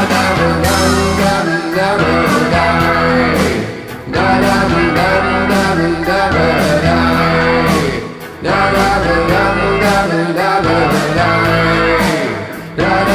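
Rock band playing an instrumental passage between verses: guitar and other instruments over a steady bass line and drum beat, with short dips about every four seconds.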